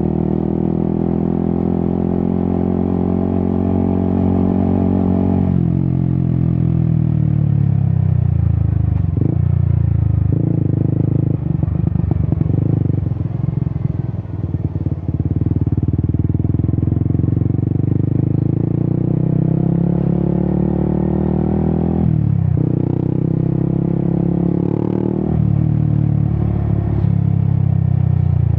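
Yamaha XSR 155's single-cylinder engine through an Akrapovic exhaust while being ridden. It holds revs, then drops off about five seconds in and goes choppy and uneven around the middle. The revs then climb again, broken by gear changes at about 22 and 25 seconds.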